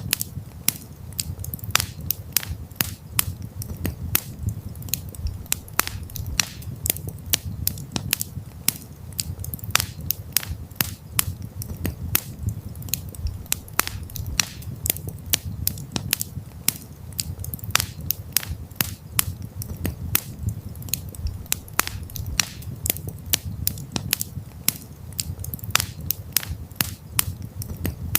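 Wood fire crackling: many sharp pops and snaps at irregular intervals, several a second, over a steady low rumble of the flames.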